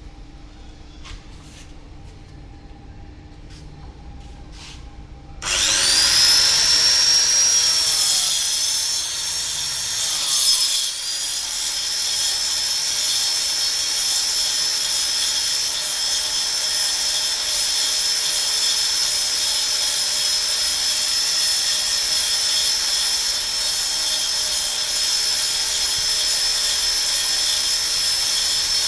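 Fishing lure duplicator (copy-carving machine) switched on about five seconds in: its high-speed spindle motor spins up with a rising whine, then runs steadily over a dense rasp, the cutter carving a wooden lure blank. A few faint clicks come before it starts.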